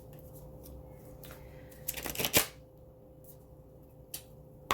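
Deck of oracle cards being shuffled by hand: a short flurry of card flicks and slaps about two seconds in, then a couple of single card taps.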